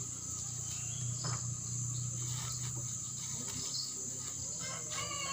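Steady, high-pitched drone of insects singing in the vegetation, with faint rustles of dry banana leaves being handled. A pitched animal call begins right at the end.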